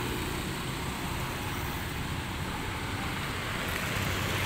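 Steady street traffic noise, a continuous rumble and hiss of passing vehicles, growing slightly louder near the end.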